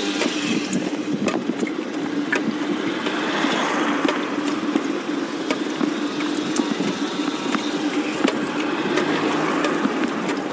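Lawn mower engine running steadily, a constant hum, with scattered sharp clicks over it.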